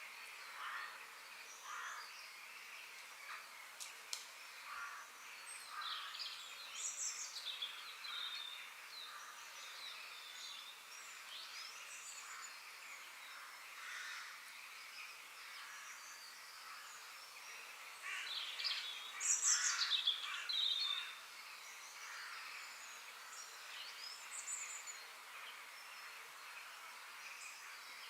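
Forest ambience of several birds chirping and calling over a faint steady hiss, with a louder flurry of quick chirps about two-thirds of the way through.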